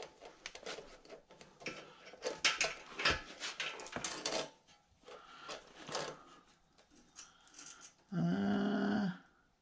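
Metal roller chain being handled, rattling and clicking in irregular bursts, busiest in the first half and sparser after. About a second before the end, a steady low-pitched buzzing hum lasts about a second, then cuts off.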